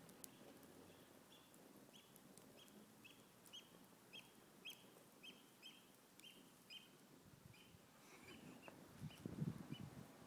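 A bird calling faintly with short, evenly repeated chirps, about two a second. Near the end a low rustling noise grows louder.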